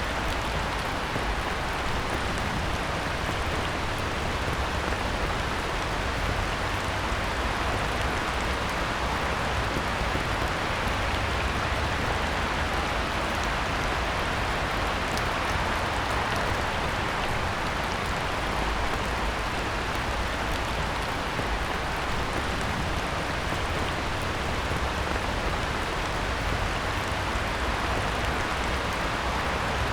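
Heavy rain falling steadily on a pond's surface, a dense even hiss of drops with a low rumble beneath.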